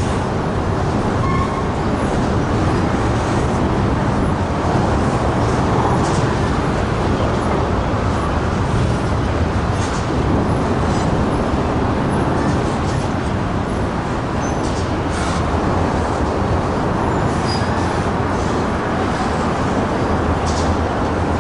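Freight train rolling on the rails: a steady, loud rumble with scattered sharp clicks from the wheels on the track.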